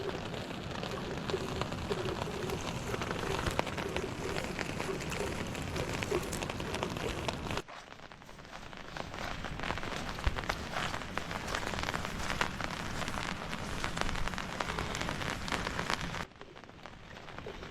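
Steady rain falling, a dense patter of drops on a surface. The sound drops away suddenly for a moment about eight seconds in and again near the end, then picks up again.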